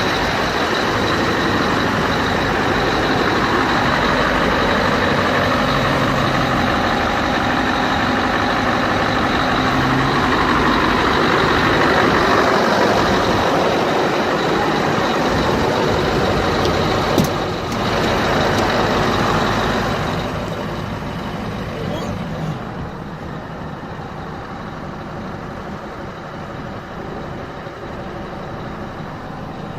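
Scania R500 truck engine running, fairly loud at first with a sharp click about two-thirds of the way through, then dropping back to a quieter steady idle.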